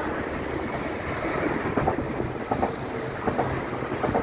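Regional passenger train passing slowly beneath, with a steady rumble and pairs of sharp clicks as its wheelsets cross rail joints.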